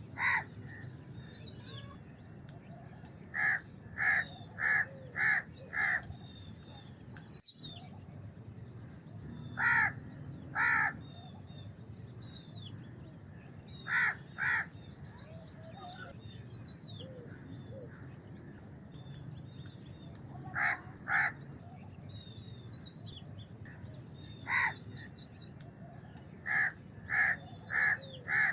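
House crows cawing, short calls in runs of one, two or five. Small birds chirp throughout over a steady low rumble.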